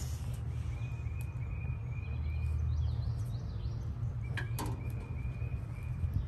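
A bird calling in two runs of short, quickly repeated chirps over a steady low rumble, with a single sharp click about four and a half seconds in.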